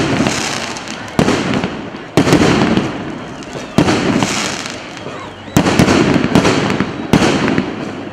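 Fireworks going off: a series of loud bangs a second or two apart, each trailing off in a fading crackle.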